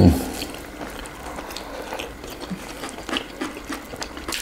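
Close-up eating sounds of chicken wings being chewed: scattered wet clicks, smacks and small crunches. A brief loud falling low sound comes right at the start.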